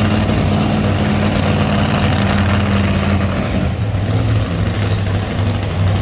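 Heavy engine of a high-horsepower pulling vehicle idling loudly and steadily, with no throttle run-up.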